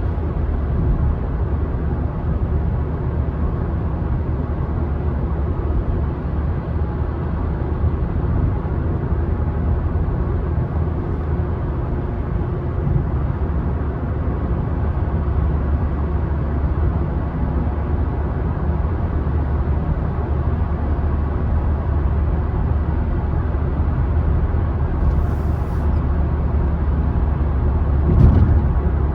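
Car driving along a road: a steady low rumble of tyres and engine, with a brief louder knock about a second before the end.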